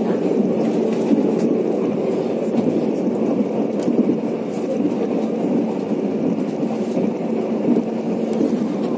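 Mugunghwa-ho passenger train running at speed, heard inside the carriage as a steady rumble of wheels on rail.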